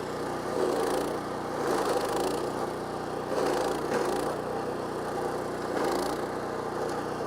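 Kohler Command Pro 14 HP CH440 engine running a stump grinder, its carbide-toothed cutting wheel grinding into a wooden stump. The grinding swells about four times as the wheel is swept across the wood.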